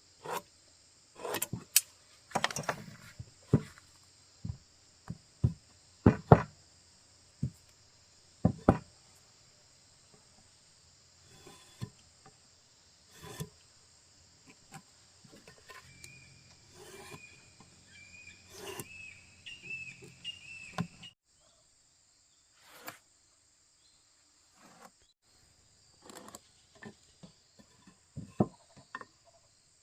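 Irregular knocks and taps of hand tools on wood, loudest and most frequent in the first nine seconds, over a steady high buzz of insects that cuts off about two-thirds of the way through.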